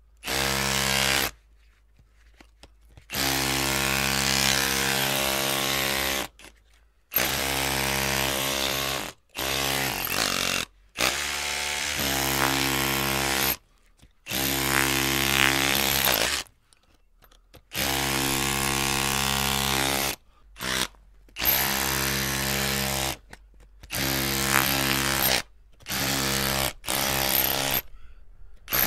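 Electric drill running in repeated bursts, its trigger squeezed and released about a dozen times, each run lasting from a fraction of a second to about three seconds with short silent gaps between. The motor whine holds a steady pitch.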